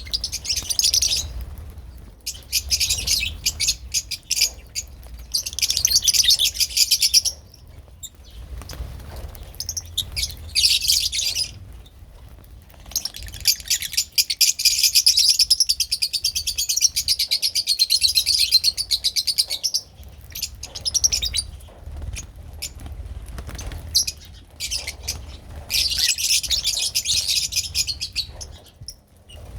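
Lovebirds chattering in rapid, high-pitched chirps that come in bouts of a few seconds with short pauses between them. The longest bout lasts about seven seconds, and a faint low hum runs underneath.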